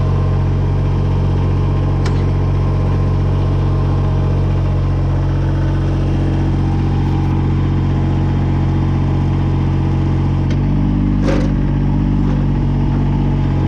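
Kubota BX22 compact tractor's three-cylinder diesel engine running steadily; its note changes about ten and a half seconds in. A couple of short metallic knocks come over it, one about two seconds in and one near eleven seconds.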